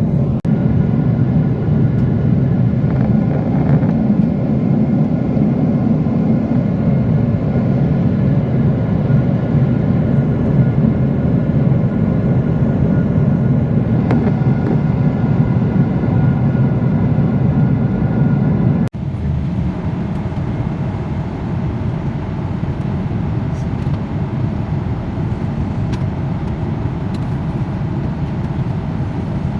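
Steady noise inside a jet airliner's cabin in flight, engines and airflow, with a few faint steady tones. It breaks off abruptly about two-thirds through and carries on slightly quieter.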